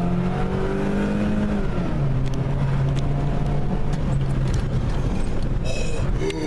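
Car engine running steadily under way, with road noise; its note drops about two seconds in.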